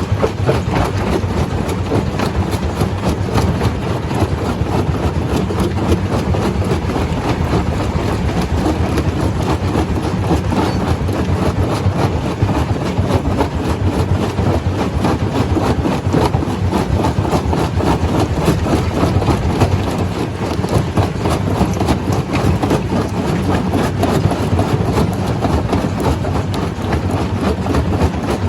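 Stone crusher running: a steady, loud machine noise with a dense, rapid clatter of rock being crushed.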